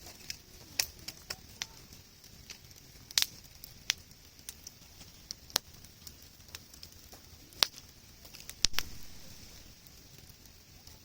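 Wood campfire crackling, with irregular sharp pops and snaps; a few louder pops come about three seconds in and near the end.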